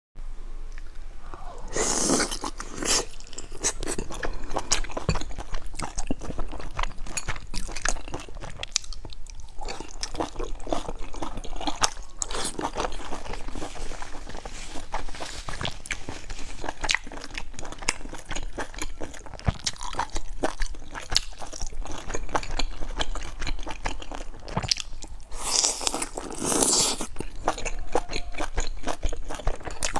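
Close-miked chewing and biting of soft eggplant-and-glass-noodle filled buns, a dense run of short wet mouth clicks and smacks. Two longer, noisier stretches stand out, about two seconds in and about twenty-five seconds in.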